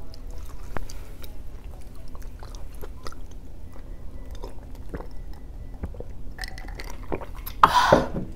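Close-miked chewing of soft food and rice, with small wet mouth clicks and ticks. Near the end comes one short, loud, breathy vocal exclamation.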